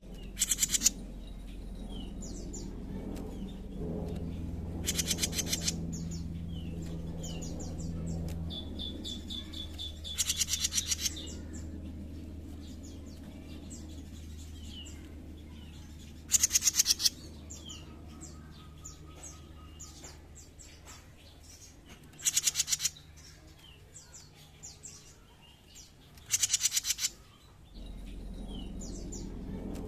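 Jenggot mini songbird calling: a loud, rapid buzzing trill about a second long, given six times at intervals of five or six seconds, with short high chirps in between. A low steady hum runs underneath.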